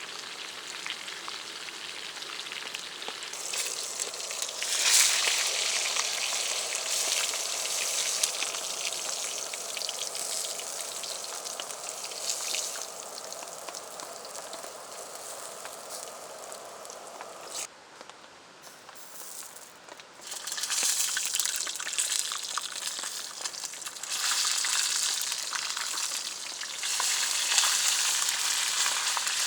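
Food sizzling in a pan over a campfire, a steady hiss mixed with rain. It drops away abruptly for a couple of seconds past the middle, then returns louder.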